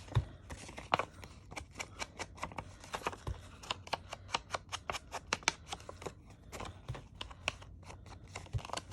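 Distress ink pad dabbed and swiped quickly along the edges of a paper tag pocket: a fast run of short scratchy taps, about four or five a second.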